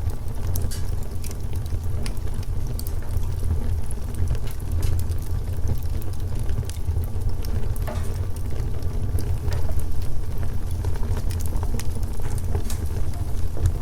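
Wood fire burning, crackling with frequent irregular sharp pops and snaps over a steady low rumble.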